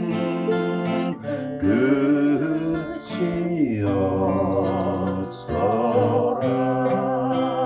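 A song sung with acoustic guitar accompaniment; the voice holds notes with vibrato over strummed chords.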